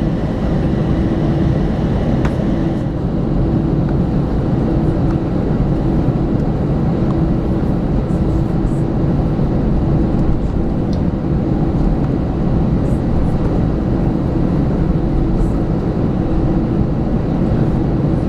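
Airbus A320 cabin noise while the airliner taxis after landing: a steady low rumble of engines at idle and airflow, with a constant hum underneath.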